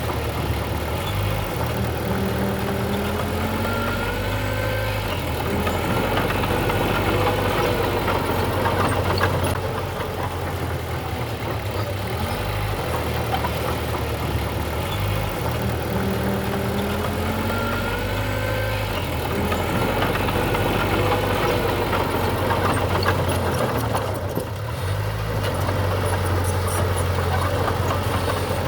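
Diesel engine of heavy earthmoving machinery running steadily, its tone shifting every few seconds as the load changes, with a few short rising and falling whines now and then.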